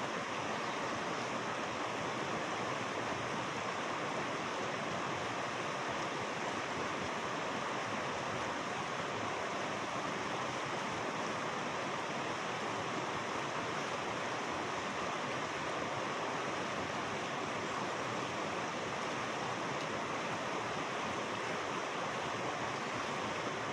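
Water rushing steadily in a fast-flowing mountain stream, an even noise that does not let up.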